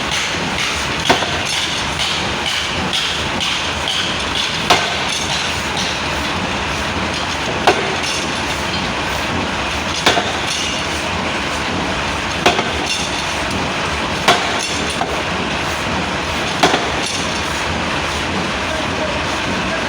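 Hammer blows, seven sharp strikes spaced every two to three seconds, over a steady workshop noise.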